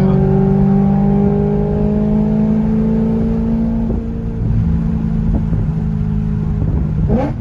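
BMW E92 M3's 4.0-litre V8 running with both mufflers removed, its exhaust open behind the resonators: a loud, droning exhaust note held at steady revs. The pitch creeps up slightly over the first few seconds, then steps down a little near the end.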